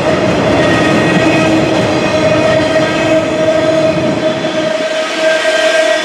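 Freight train auto rack cars rolling past: a steady rumble of wheels on rail with a steady high ringing tone running through it. The deepest part of the rumble drops away near the end.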